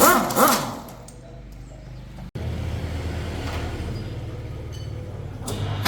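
Motorcycle engine running steadily at idle, a low even hum that starts abruptly after a cut about two seconds in. It is preceded by a brief loud sound that sweeps up and down in pitch.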